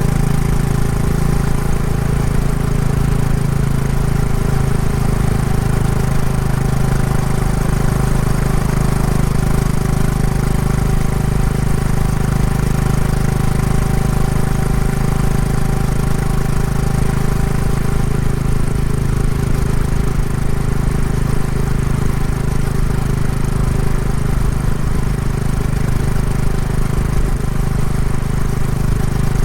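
Royal Enfield Classic 350's single-cylinder engine through its stock exhaust, running steadily as the motorcycle cruises at an even speed during running-in.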